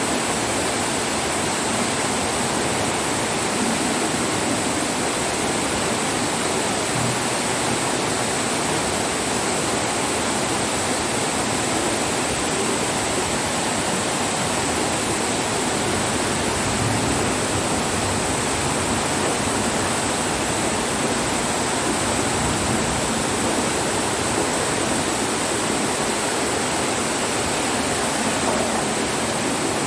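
Steady, unbroken rush of torrential rain and floodwater running in the street.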